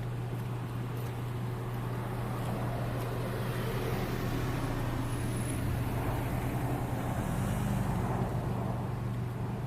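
A steady low engine hum with road-traffic noise, swelling louder about seven to eight seconds in and easing near the end, like a motor vehicle passing.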